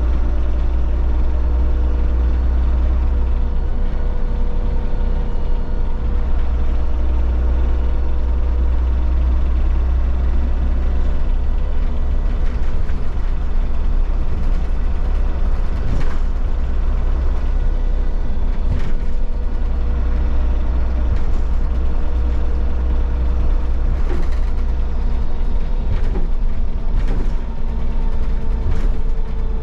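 Solaris Urbino 15 city bus under way, heard inside the empty passenger cabin: a steady low engine rumble with a whine from the Voith automatic gearbox. From about halfway, scattered knocks and rattles come from the bus body.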